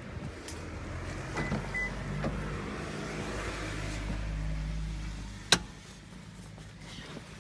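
An electric closing motor on a Toyota Estima minivan runs for about four seconds, with a brief high beep about a second and a half in, and stops with a sharp clunk as the panel shuts.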